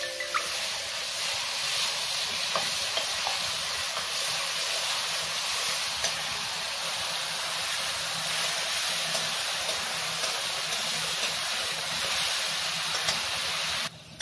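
Spice paste frying in hot mustard oil in a steel kadhai: a steady sizzle, with a steel spatula stirring it through the pan. The sizzle cuts off suddenly near the end.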